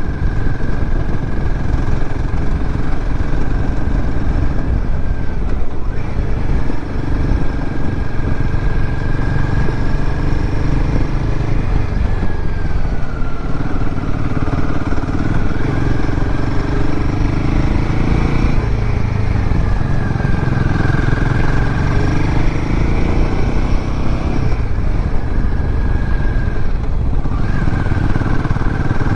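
Royal Enfield Himalayan 450's 452cc single-cylinder Sherpa engine running as the motorcycle is ridden along the road. The engine note dips and recovers a few times with throttle and gear changes.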